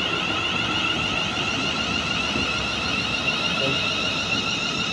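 Electric passenger train standing at the platform, giving off a steady, high-pitched, warbling electrical whine.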